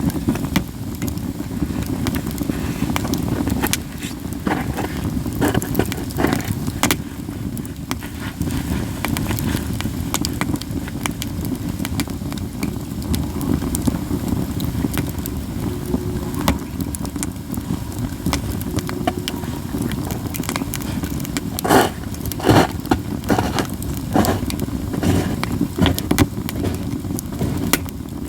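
Katsura wood fire burning in a fire pit, crackling steadily with scattered sharp snapping pops, a few louder ones about two-thirds of the way through, over a steady low rumble.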